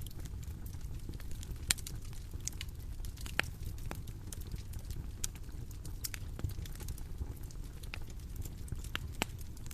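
Bonfire crackling: irregular sharp pops and snaps over a steady low rumble, with the loudest pops about two and three and a half seconds in.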